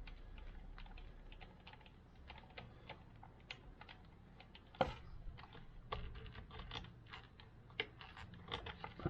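Light, irregular clicks and taps of small metal parts and tools being handled during work on a motorcycle's front fork, with one sharper knock a little before halfway.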